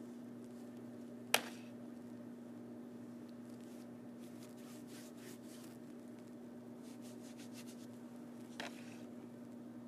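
Faint brushing and scraping strokes of painting a stage backdrop, with a sharp tap about a second in and a softer one near the end, over a steady low hum.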